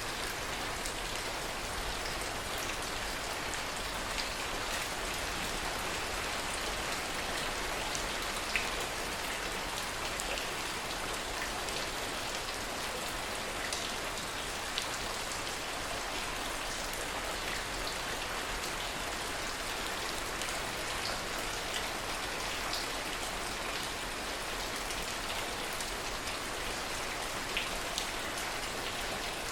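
Steady heavy rain falling, with individual drops ticking sharply here and there, two of them standing out about a third and half way through.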